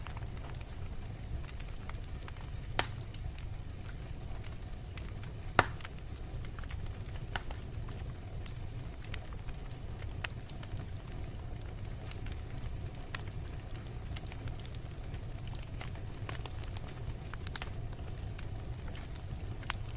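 Log fire burning in a fireplace: a steady low rumble with scattered crackles, and two sharper, louder pops about three and five and a half seconds in.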